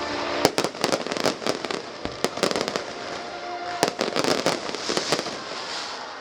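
Fireworks bursting and crackling in rapid clusters of sharp bangs, over faint background music.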